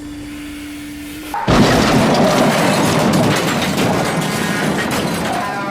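A steady low hum cut off by a sudden loud explosion-like boom about a second and a half in, whose rumbling noise slowly dies away. It is a blast sound effect in an edited intro.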